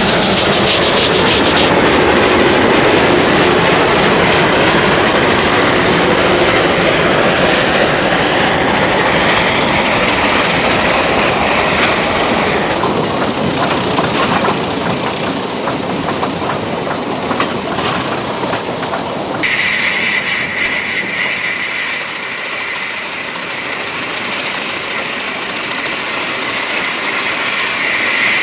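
A narrow-gauge steam-hauled train running, a Kalahari locomotive piloting a Class 16 Garratt, with wheels clattering over the rail joints and steam hissing. The sound changes abruptly twice, about 13 and 19 seconds in, and a steady high tone carries on through the last part.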